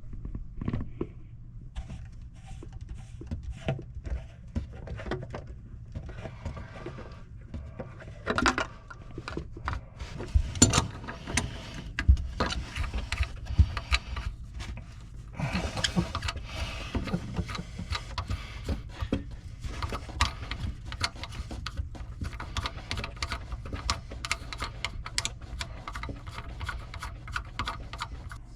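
Irregular clicks, taps and scraping of metal and plastic faucet parts being unscrewed and handled as a kitchen faucet's side spray hose guide and soap dispenser base are taken apart, over a steady low hum. The clicking grows busier about halfway through.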